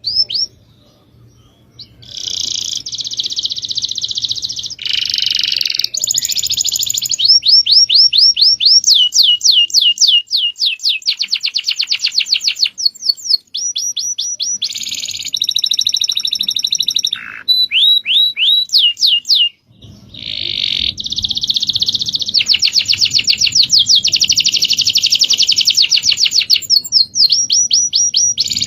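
Recorded songbird song of the kind played to train cage birds. It starts about two seconds in with long runs of rapid, repeated, high sweeping notes and buzzy trills. The song pauses briefly twice.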